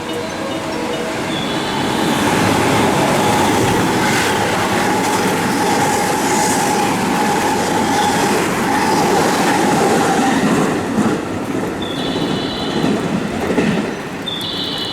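A train running through the station at speed: a loud rumble of wheels on rail with clickety-clack, and a steady whine over it for several seconds. The noise eases off in the last few seconds.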